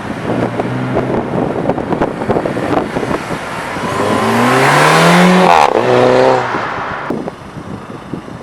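A car accelerating past at full throttle: its exhaust note climbs in pitch and grows loud, drops sharply in pitch as it goes by, then fades away. Wind buffets the microphone beforehand.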